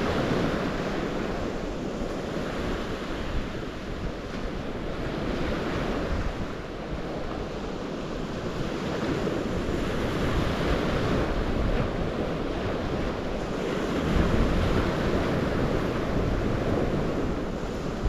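Steady rush of moving water, with wind buffeting the microphone in low gusts that grow stronger near the end. The sound cuts in suddenly at the start.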